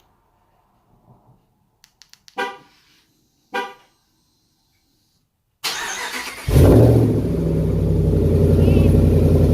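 2019 Ram 1500's V8 cranked by the starter about five and a half seconds in, catching with a loud flare and settling into a loud, steady idle through a straight-pipe muffler delete.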